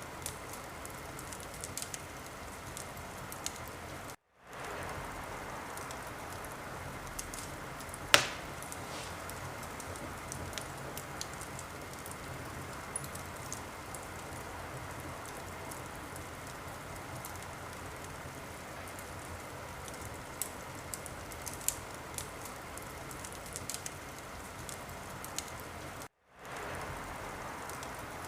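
Wood fire burning in a fireplace, crackling: a steady hiss with scattered pops, one louder pop about eight seconds in. The sound cuts out briefly twice, about four seconds in and near the end.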